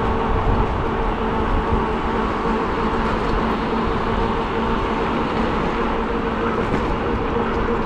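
Riding noise on a moving e-bike: steady wind rush and rumble over the microphone, with a steady hum underneath.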